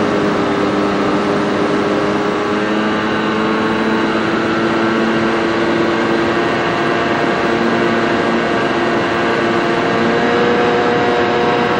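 The model airplane's motor and propeller run steadily at cruise, heard from on board, with the pitch climbing slightly near the end as the throttle or airspeed changes.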